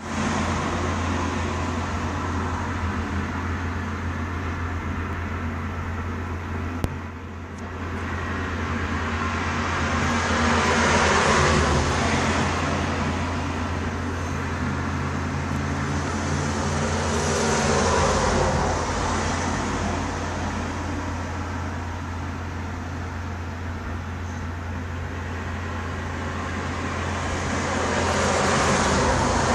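Road traffic noise: a steady low hum under a wash of noise that swells as vehicles go by, about a third of the way in, again just past halfway and near the end, with a single brief click shortly before the first swell.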